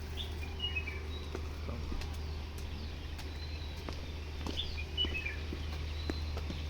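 Birds chirping in short, high twittering phrases, once near the start and again about two-thirds through, over a steady low rumble and scattered faint clicks.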